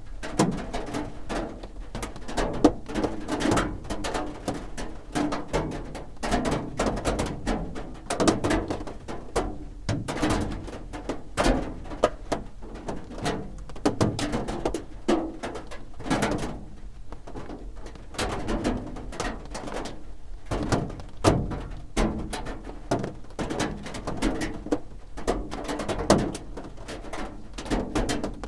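Raindrops drumming on a roof: dense, irregular taps and drips with heavier drops landing as dull thuds.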